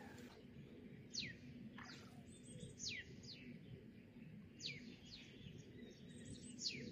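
A wild bird calling over and over: short, high whistled notes that each slide steeply downward, mostly in quick pairs repeated about every two seconds.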